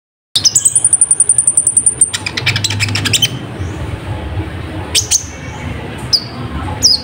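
Sunbird (kolibri ninja) song played as a lure: a fast run of high ticks under a thin, steady high whistle, then a rapid trill, followed by three sharp downward-sweeping chirps in the second half.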